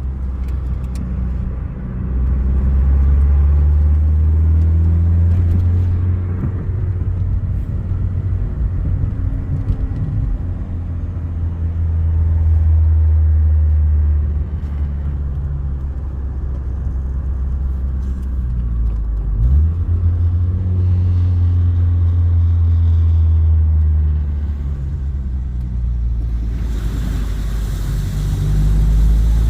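Saturn Ion's four-cylinder engine running as the car drives along, a steady low drone that swells and eases with the throttle, with a brief rising whine about two-thirds of the way through. A rushing hiss joins in near the end.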